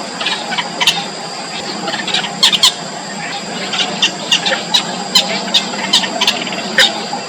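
Yellow bittern nestlings giving short, sharp, squeaky begging calls, a few each second at uneven intervals, as they are fed in the nest.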